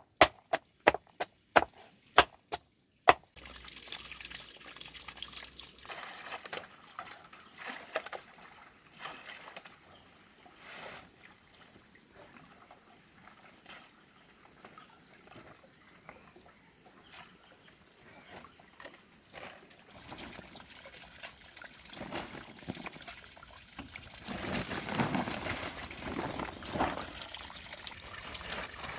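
Sharp chopping blows, about three a second, that stop abruptly about three seconds in. They are followed by irregular water trickling and pouring sounds.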